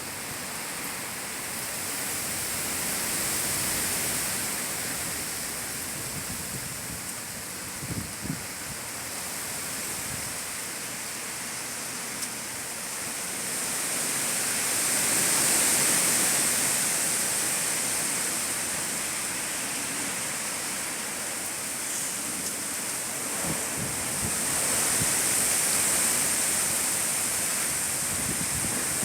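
Storm of rain and strong wind: a steady hiss that swells with gusts about three times.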